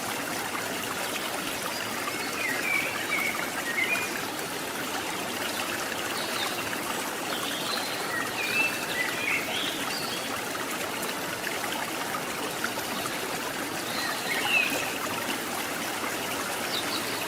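River water rushing steadily over rocks at the top of a waterfall, with a few short, high chirps now and then.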